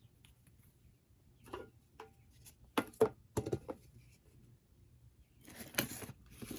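Light handling noises at a craft work table: a few sharp taps and clicks about three seconds in, then a short rustle near the end.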